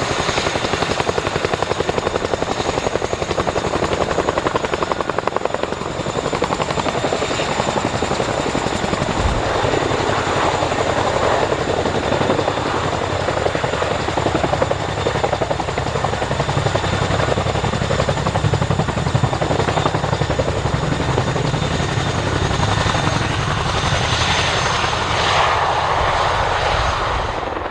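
CH-47 Chinook tandem-rotor helicopter running steadily: fast rotor chop under a high, steady whine from its twin turboshaft engines.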